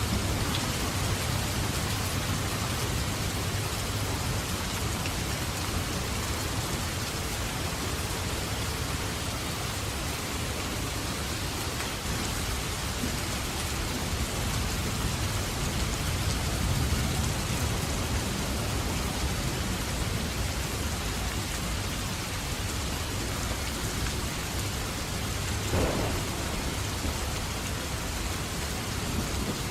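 Steady heavy rain falling, with low rumbles of distant thunder swelling and fading now and then. One brief, sharper sound stands out near the end.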